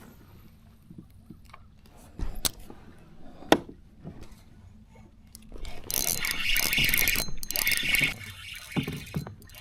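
Knocks and clicks of gear being handled aboard a fishing kayak, with a sharp knock about three and a half seconds in. Then comes about two and a half seconds of loud hissing, splashy noise, followed by a few low thumps near the end.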